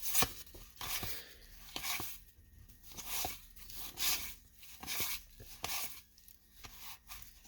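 Wax-paper baseball card pack being torn open and crinkled, a string of short papery tears and rustles.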